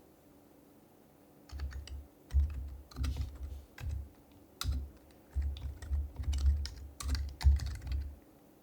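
Typing on an HHKB Professional HYBRID Type-S keyboard with silenced Topre switches: irregular runs of keystrokes with soft low thuds, starting about a second and a half in and stopping shortly before the end.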